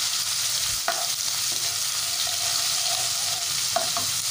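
Ginger sizzling in hot oil in a non-stick kadhai, stirred with a spatula that knocks against the pan a couple of times, about a second in and near the end.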